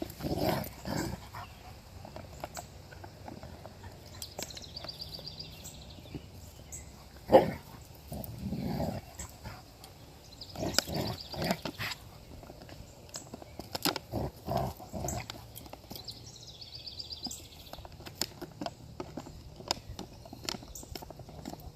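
Puppies making short, scattered sounds: a few separate bursts of yips and barks, the loudest about seven seconds in, with light clicks and taps between them.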